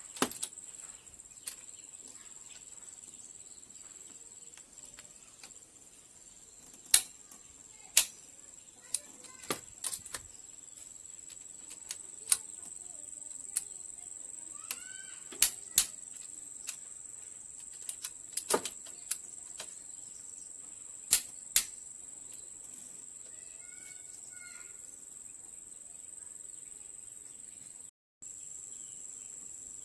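Scattered sharp clicks and taps of hand tools and parts on metal, over a steady high-pitched insect drone.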